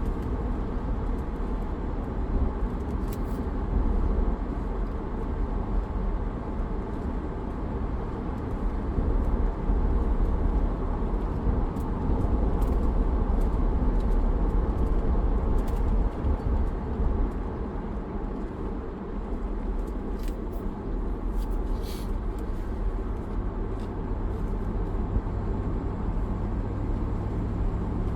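A 2004 Land Rover Discovery 2 under way, its engine and road noise making a steady low rumble, with a few faint brief ticks.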